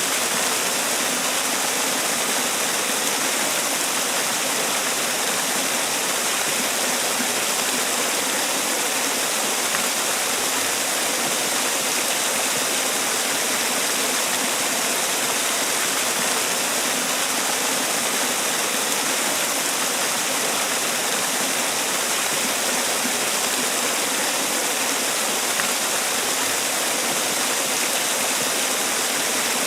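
Man-made waterfall: water falling and rushing in a steady, unbroken roar that does not change.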